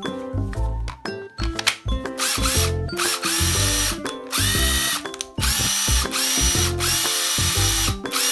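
Cordless power tool test-run in five short bursts of about a second each, starting about two seconds in. Each burst opens with a rising motor whine as the tool spins up, and background music plays throughout.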